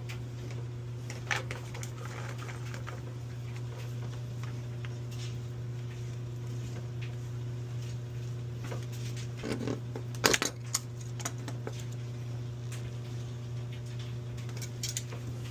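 A steady low hum, with scattered light clicks and a short cluster of knocks and rattles about ten seconds in.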